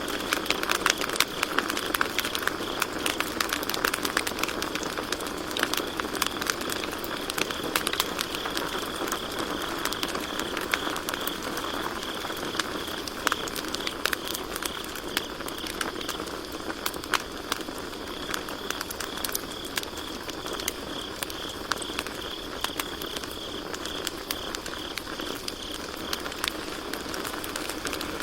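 Campfire crackling with frequent sharp pops, over crickets chirping steadily.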